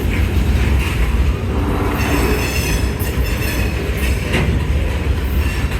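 Freight train rolling past at close range: a heavy steady rumble, with the wheels clacking over rail joints about once a second.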